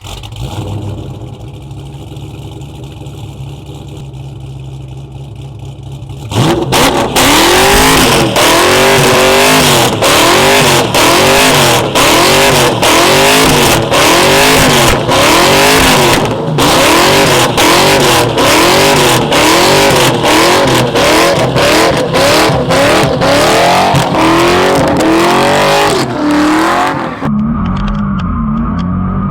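Car engine idling, then from about six seconds in revving hard in repeated rises and falls about once a second as the car drifts, with many sharp cracks throughout. Near the end it drops back to a steadier, lower run.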